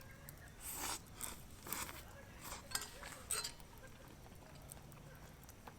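A handful of light clinks and clicks of tableware during a meal, bunched in the first three and a half seconds, then quieter.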